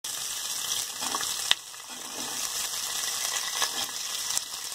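Whole spices and oil sizzling in a hot steel kadai, a steady frying hiss, with a single sharp click about a second and a half in. Chopped onions are tipped into the pan in the second half and it keeps sizzling.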